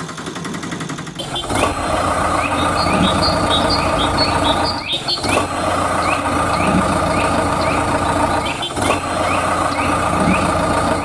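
A steady engine-like running sound, broken into three stretches by short breaks, with short falling chirps repeating about twice a second over it.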